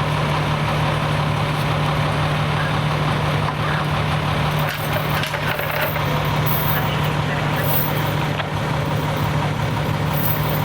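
Fire apparatus engine idling with a steady low hum.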